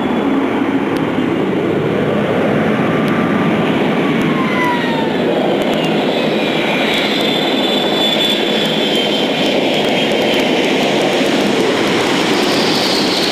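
Boeing 777 jet engines running loud during a rejected takeoff: a steady rushing roar with thin whines that slide down in pitch a few seconds in.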